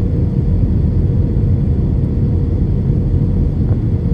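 Steady, loud low rumble of an airliner's engines and airflow heard from inside the cabin during the approach to landing, with a faint steady hum above it.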